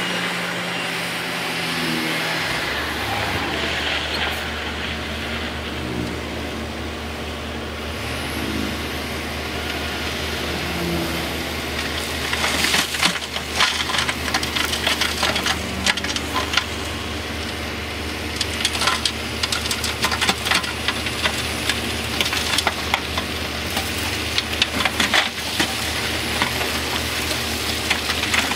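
Heavy diesel earthmoving machinery running with a steady low engine drone that sets in about two seconds in. From about halfway, repeated sharp clanks and knocks sound over the engine.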